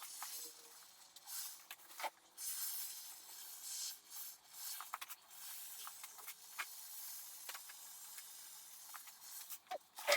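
Aerosol spray can hissing in uneven stretches with short gaps, with a few sharp clicks and knocks in between.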